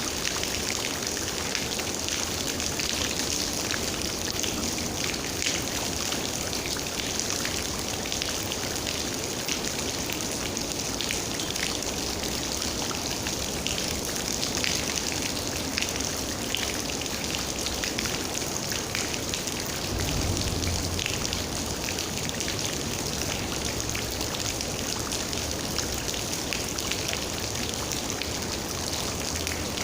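Steady rain, with a dense patter of individual raindrops. About two-thirds of the way through there is a brief low rumble.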